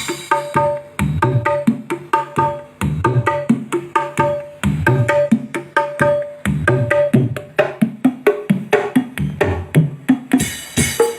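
Music with a steady, drum-led beat of hand percussion, played through a miniature sound system speaker being tested.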